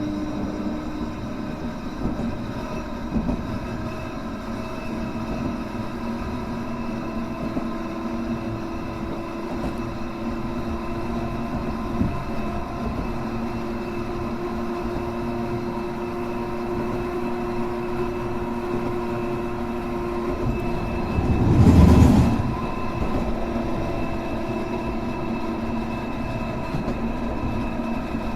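Hankai Tramway car 351 running along the track: a steady hum from its motors and gears, with a few single clicks over rail joints. A loud rush of noise lasting about a second comes about three-quarters of the way through.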